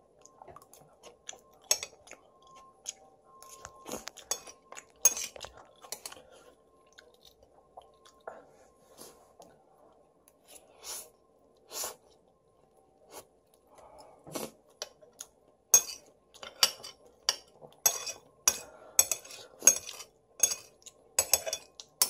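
Close-up chewing of spicy noodles (ramen-tteokbokki), with many short wet mouth clicks that come thick and fast in the last several seconds, and metal chopsticks now and then clinking on the plate.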